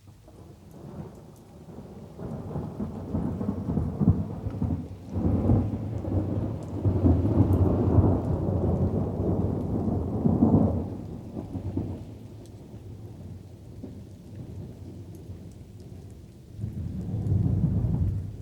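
Rolling thunder over light rain. A long low rumble builds about a second in, holds for several seconds and dies away, leaving the soft hiss of rain, and a second rumble swells near the end.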